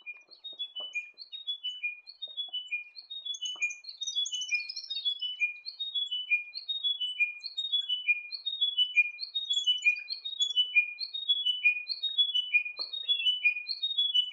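Chiming wedgebill singing: a clear phrase of about five notes stepping down in pitch, repeated over and over about once a second. From about four seconds in, higher notes overlap the phrase.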